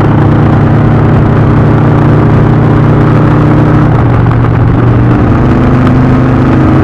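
Indian V-twin motorcycle engine running steadily at cruising speed, with wind noise. The revs dip slightly about four seconds in.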